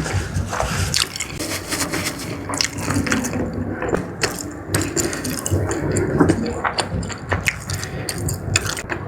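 Close-miked wet eating sounds: chewing and lip-smacking on jumbo squid in spicy sauce, with many small sticky clicks throughout.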